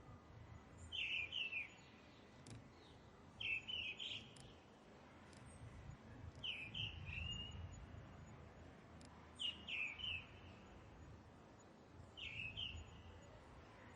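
A bird calling a short phrase of a few quick, high notes, repeated five times about every three seconds, over a faint low background rumble.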